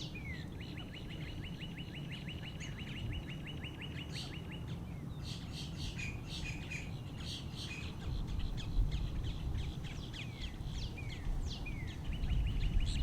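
Small birds calling: a rapid, even trill of short high notes for about four seconds, then scattered chirps and down-slurred whistles, with the trill starting again near the end.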